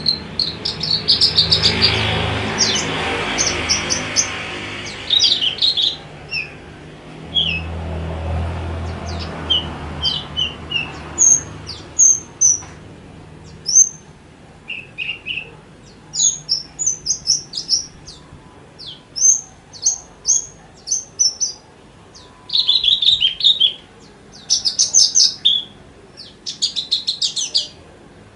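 Javan bushlark (branjangan) singing: quick runs of short, high chirps and rapid trills with only brief pauses between phrases. A low, broad rumble lies under the song for roughly the first ten seconds.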